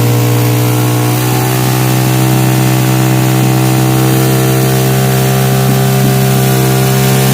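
Suzuki Satria FU motorcycle engine running through a DBS aftermarket exhaust, held at a steady engine speed with a loud, even exhaust note.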